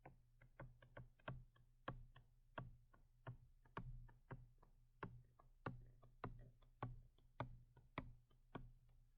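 Faint, sharp clicks from working on a drawing, about two a second and unevenly spaced, over a faint low hum.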